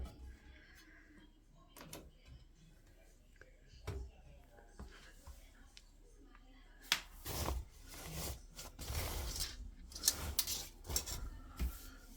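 Irregular knocks, clicks and clatter, sparse at first and busier from about halfway on, with no steady drum-spinning sound.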